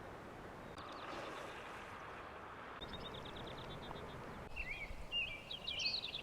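Small songbirds singing over a steady background hiss: first a rapid trill of short repeated high notes, then, about two-thirds of the way in, quick sweeping high phrases that are the loudest part.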